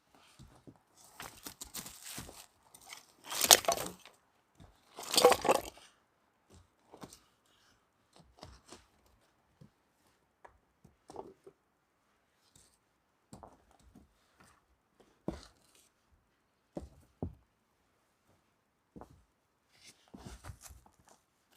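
Camp gear being handled: two loud ripping sounds a few seconds in, after some rustling, then scattered light crunches and knocks.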